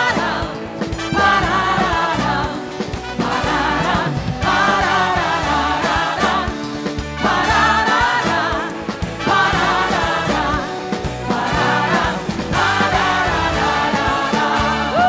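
Live church praise band playing an upbeat gospel song with drums, bass and keys, and voices singing phrases of about a second and a half with short gaps between them.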